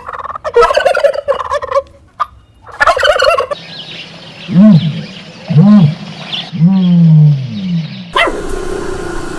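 Turkeys gobbling in rapid, rattling bursts. These are followed by three shorter rising-and-falling animal calls, the last one drawn out and falling.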